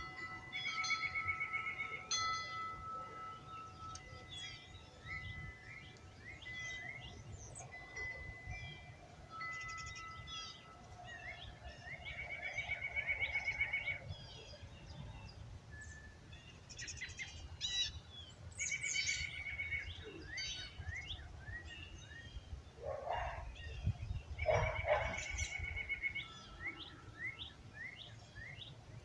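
Dawn chorus of songbirds chirping and trilling, over a wind chime ringing with long held tones that fade out about halfway through. Near the end, two louder, lower bird calls stand out.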